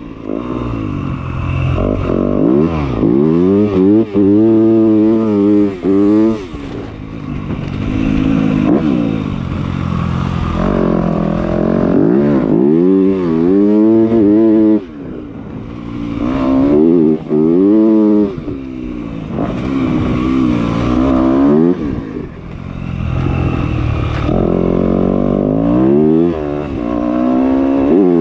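Motocross bike engine revving hard while riding. Its pitch climbs again and again and drops off, with short dips as the throttle closes, about 6, 15 and 22 seconds in.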